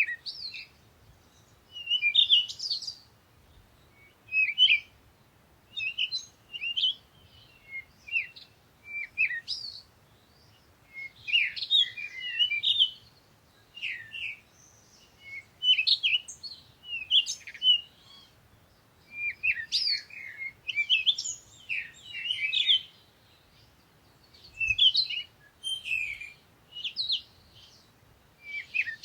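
Small songbirds chirping and singing in short bursts, one every second or so, several phrases overlapping at times.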